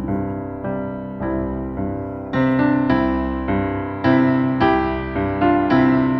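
Keyboard or piano music: slow sustained chords, each struck and left to fade, changing about every second.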